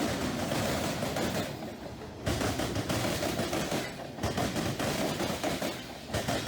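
HO scale model train running on the layout, a rapid rattling clatter with short lulls.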